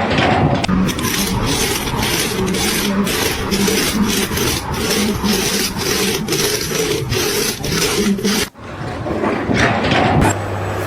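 Rhythmic rasping, scraping noise, broken off suddenly about eight and a half seconds in.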